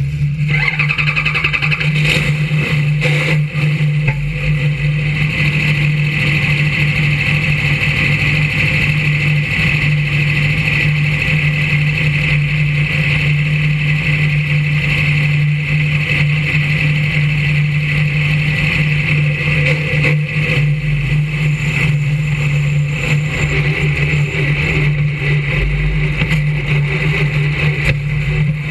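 Brisca F1 stock car's V8 engine running at a steady note, recorded close up by a camera mounted on the car.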